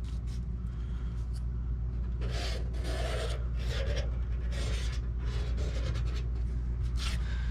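A series of short rubbing, scraping strokes against the sheet-metal ductwork, typical of marking around a mounting template, over a steady low hum.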